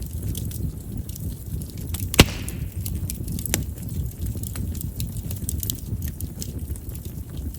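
Chestnut firewood burning in a bonfire: a steady low rush of flame with small crackles, a loud sharp pop about two seconds in followed by a brief hiss, and a smaller pop a second or so later. Chestnut's large pores make the wood prone to popping as it burns.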